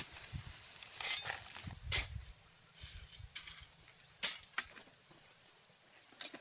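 Scattered sharp knocks and taps, about six spread irregularly over a few seconds, over a faint steady high-pitched whine.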